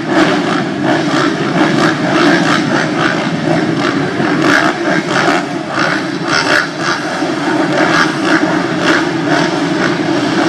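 Motocross bikes' engines running and revving together, the noise rising and falling in many short surges.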